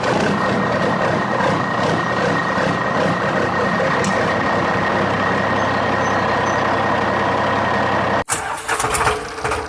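A motor vehicle's engine running steadily, with a faint whine held through it. It cuts off suddenly near the end and a choppier, rattling sound takes over.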